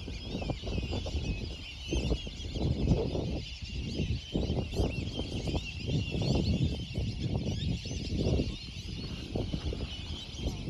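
Birds calling, with a dense, continuous chorus of high chirps over irregular low bursts of sound.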